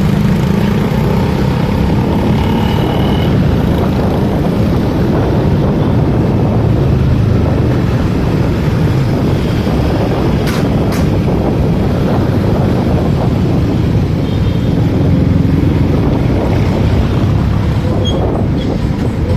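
Motorcycle ridden on the road, from the rider's point of view: a steady mix of engine and road noise with no break.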